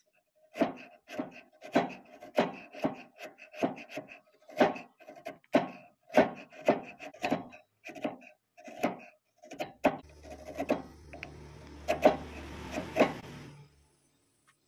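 Wood being rubbed or filed by hand in regular rasping strokes, about one and a half a second. About ten seconds in, a small motor starts a steady hum with a hiss and a few sharp clicks, then stops near the end.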